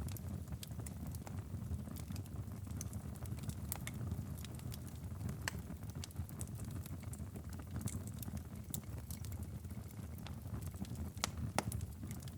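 Wood fire in a fireplace crackling and popping in irregular sharp snaps, a few louder pops near the end, over a steady low rumble.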